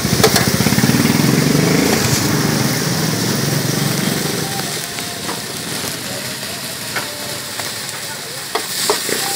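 Fried noodles sizzling on a large hot flat pan, with a metal spatula scraping and clicking against the pan a few times in the second half. A low rumble underneath fades away by about the middle.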